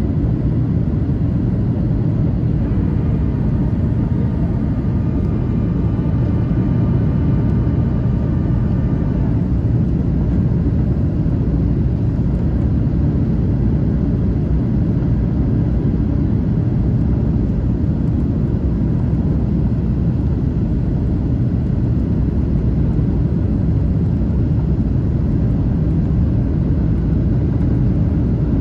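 Steady, loud cabin rumble of a Boeing 737-800 airliner: engine and airflow noise, heaviest in the low end. Faint higher tones sound above it for about six seconds near the start.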